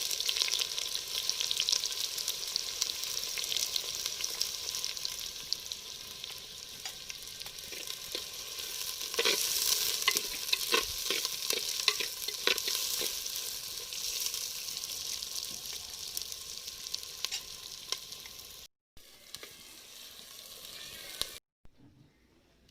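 Onions frying in hot oil with garam masala: a steady sizzle, with a spoon clicking and scraping against the pan as they are stirred, most in the middle. The sizzle cuts out suddenly twice near the end and is then much fainter.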